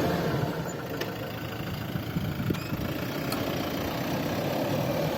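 Diesel 4x4 SUV engine running steadily at low revs while the vehicle crawls slowly, with a few faint clicks.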